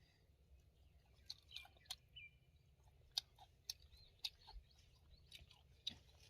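Faint, irregular crunchy clicks of something chewing food, a few sharp ticks a second.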